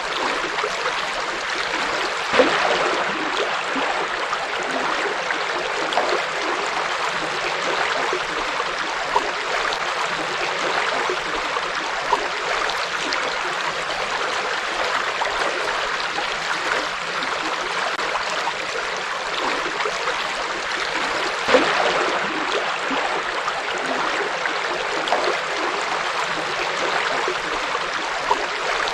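A forest river flowing over rocks, a steady rushing and babbling of water with small splashes scattered through it. Two louder splashes stand out, about two seconds in and about three-quarters of the way through.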